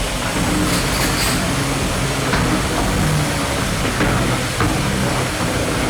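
Beetleweight combat robots' motors running in the arena: a steady mechanical noise with a low hum that shifts in pitch, and a few light clicks or knocks about a second in and again at about two and a half seconds.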